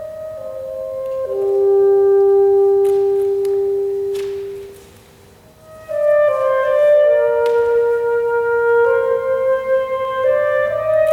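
Solo saxophone playing slow held notes: a long low note for about three seconds that fades into a brief near pause, then a string of shorter notes moving up and down.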